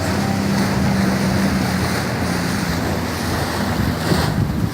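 Wind buffeting the microphone and water rushing aboard a sailboat under way, with a steady low hum underneath that fades out after about three seconds.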